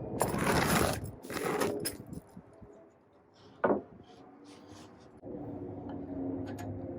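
Rustling and handling of hardware, then from about five seconds in a cordless drill runs steadily, pre-drilling holes in the wood for the brackets.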